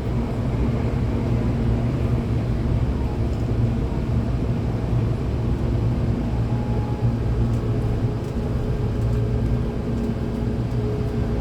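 Interior running noise of a Hankyu Imazu Line electric train moving between stations: a steady low rumble of wheels on rail with a faint constant hum.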